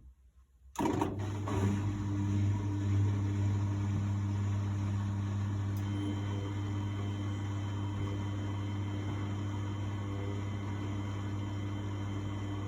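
1999 Miele Novotronic W828 washing machine: a steady electrical hum starts suddenly about a second in and holds, with a light noisy wash underneath.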